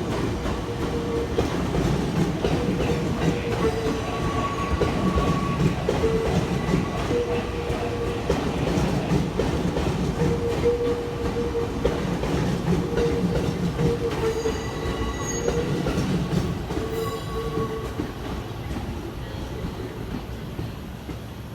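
Tokyo Metro Tozai Line subway train running on the rails: a steady rumble with short, repeated wheel squeals, growing quieter near the end.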